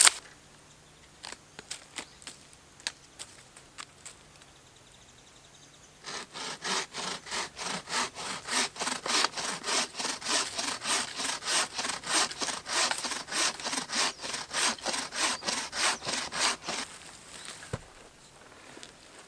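Hand sawing of wood with a bow saw, the blade going back and forth in an even rhythm of roughly two and a half strokes a second. It begins about six seconds in, after a few light knocks, and stops shortly before the end.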